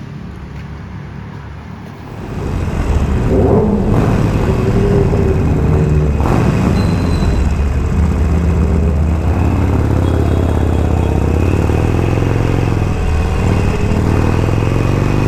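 Motorcycle engine running while riding, growing louder about two seconds in and then running steadily.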